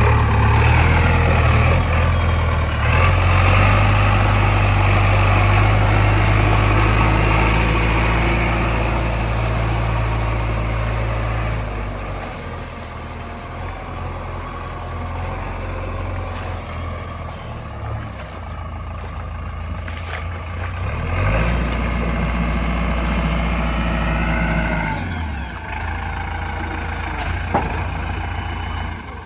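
Heavy vehicle's diesel engine running, loud for about the first twelve seconds, then quieter, with a louder stretch again about two-thirds of the way through.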